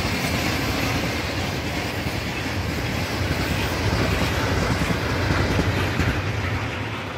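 Freight train of covered hopper wagons rolling past, a steady rumble of wheels on the rails.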